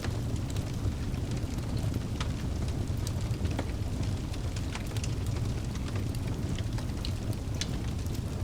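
Wood fire burning in a fireplace: a steady low rumble of flames with frequent sharp crackles and pops scattered unevenly throughout.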